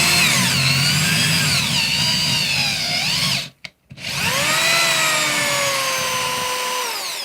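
Cordless screwdriver spinning a thread tap through the threaded holes of a Jawa motorcycle engine's crankcase, chasing the threads. Two runs of motor whine: the first wavers in pitch and stops about three and a half seconds in. The second starts half a second later and slowly falls in pitch, winding down near the end.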